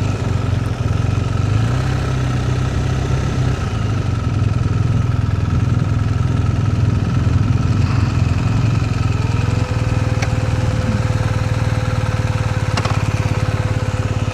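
BMW R1250R boxer-twin engine running steadily at low revs. About nine and a half seconds in, a steady whine starts and holds: the radiator cooling fan cutting in on the hot engine.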